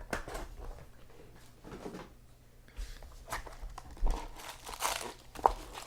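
Intermittent handling noise from trading cards and their pack wrappers being handled: scattered small clicks and short rustles, busier in the second half.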